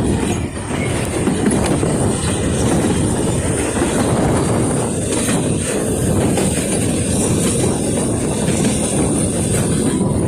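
Puffing Billy narrow-gauge steam train on the move: a steady, loud rumble of carriage wheels on the track, with a thin high-pitched squeal running over it.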